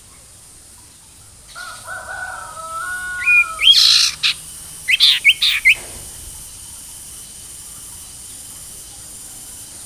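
Sirtu songbird singing one phrase: a low warbling run that climbs into loud high notes, ending in four quick, sharp rising whistles, then stops.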